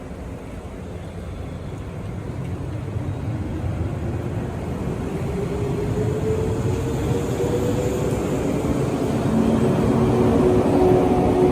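A train approaching, its running noise growing steadily louder. From about halfway, a whine of several tones joins it, one tone slowly rising.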